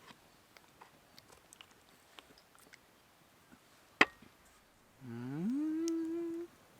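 A person's voice hums one note that glides upward, then holds steady for about a second before stopping. A sharp click comes about a second before it, with faint small clicks and taps throughout.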